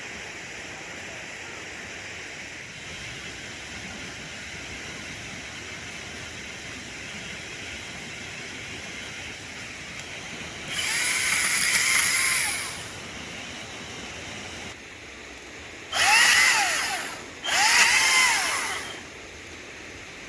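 Echo DCS-2500T 56-volt battery chainsaw running in three short bursts, one about eleven seconds in and two close together near the end. The electric motor's whine dips and recovers in pitch in each burst as it cuts through trailside brush.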